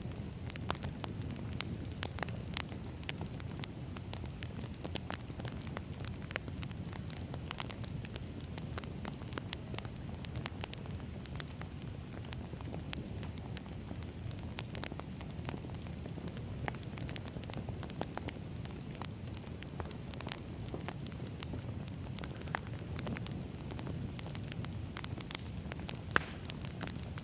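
Wood fire burning: a steady low rumble and hiss with frequent sharp crackles and pops of burning logs, one louder pop near the end.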